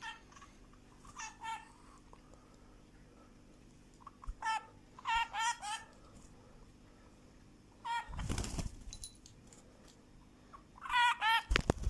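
A pet bird calling in short runs of quick repeated notes, a few times with pauses between. A loud rustling burst comes about 8 seconds in and another near the end.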